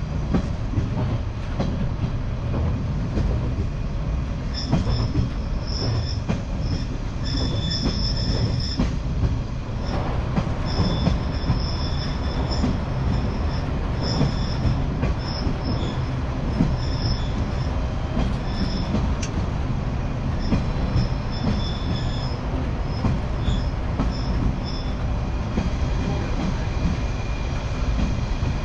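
Rail vehicle running along the track, heard on board, with a steady low running rumble and repeated high-pitched wheel squeal that comes and goes through the middle of the stretch.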